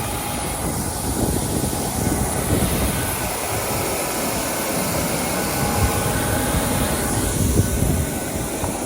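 Jet airliner noise heard from inside the cabin: a steady, dense rumble of engines and airflow with a faint high steady whine.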